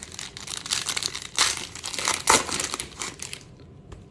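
Plastic-foil wrapper of a Bowman baseball card pack crinkling as it is handled and opened by hand, with a few louder crinkles.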